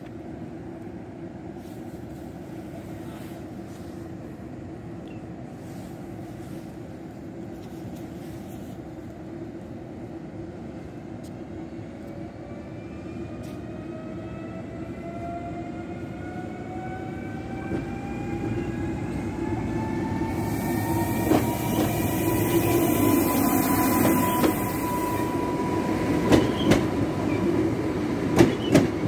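Koleje Małopolskie EN79 electric multiple unit pulling away from a station. A low rumble at first, then from about halfway through the traction motors whine, rising steadily in pitch as the train accelerates and grows louder. Near the end the wheels click over rail joints.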